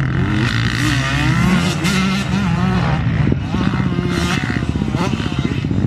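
Dirt bike engines racing on a motocross track, revving up and dropping back again and again as the riders throttle and shift, with a noisy rush underneath.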